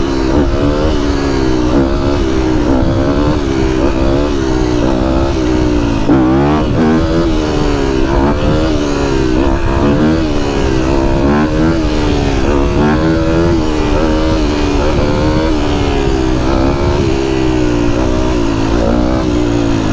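Several dirt bike engines running and revving together, their pitch rising and falling continuously.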